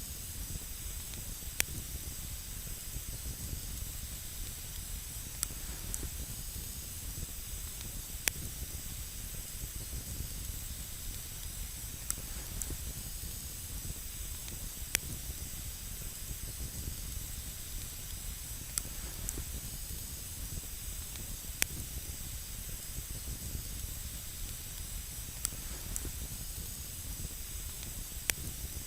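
Wood campfire burning with a steady hiss and sharp crackling pops, one every second or few.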